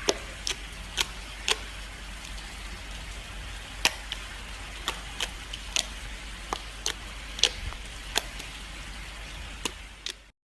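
Slime being mixed or worked, giving irregular sharp sticky clicks and pops, about two a second, over a steady low hum; the sound cuts off suddenly near the end.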